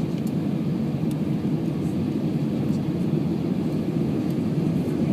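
Steady cabin noise inside an Airbus A319 airliner: a constant low rumble of engines and airflow, even throughout.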